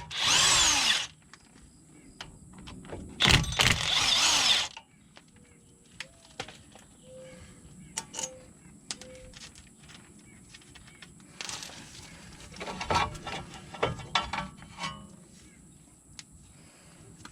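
Power tool spinning out the 13 mm front brake caliper bolts in two bursts, about a second and then about a second and a half long, its pitch rising and falling. Afterwards come light metallic clicks, clinks and knocks as the caliper and tools are handled.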